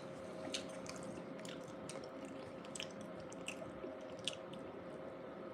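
Close-miked chewing of a soft bean burrito, with small wet mouth clicks scattered through it.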